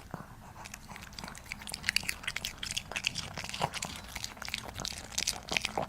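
Puppy chewing and crunching a snack close to the microphone: a quick, irregular run of crackly bites and mouth clicks.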